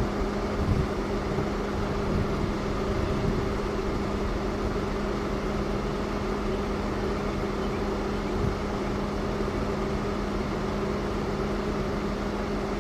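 A vehicle engine running at a steady speed, with a constant low hum over even noise.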